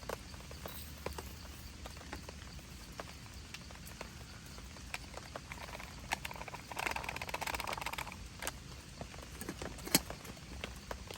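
Irregular raindrops tapping on a tent shelter. A louder burst of rustling comes about six seconds in, and one sharp tap near the end.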